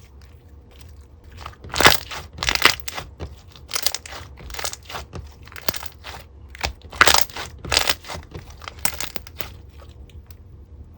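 Bubble-filled clear slime being squished and pressed, giving irregular bursts of sharp crackling pops, loudest about two seconds in and again around seven seconds.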